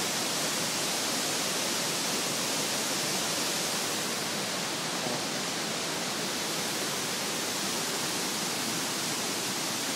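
Steady roar of a large waterfall, Elephant Falls, heard close up.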